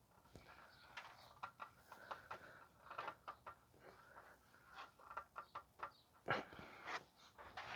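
Faint, scattered small clicks, taps and rustles of hand work on the engine around the newly fitted oil filter.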